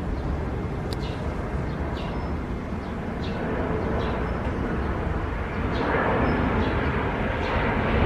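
Faint short high bird calls repeat roughly once a second over a steady low rumble of background noise, which grows louder about six seconds in.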